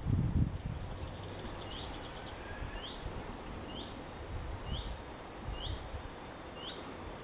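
Small songbird repeating a short, upward-sliding call note about once a second, with a brief quick trill from another bird about a second in. Underneath is a steady rush of wind, which buffets the microphone with a low rumble at the start.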